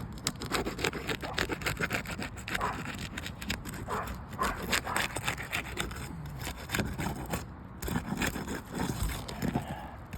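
Shingle-removal tool sliding in and out under roof shingles, scraping and rubbing in many short irregular strokes as it breaks the sealant bonds between the shingles.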